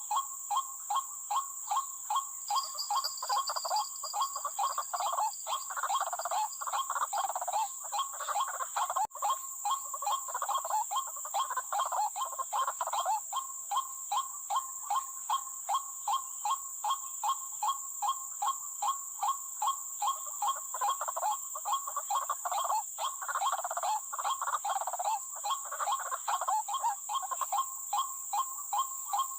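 White-breasted waterhen call, a fast, regular croaking repeated about twice a second, with harsher bursts of calling layered over it several times. A steady high-pitched insect-like whine runs underneath.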